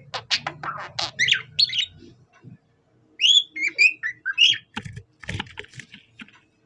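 Budgerigar giving whistled, cockatiel-like calls in two bursts of rising and falling notes with a short pause between them, mixed with clusters of short clicks.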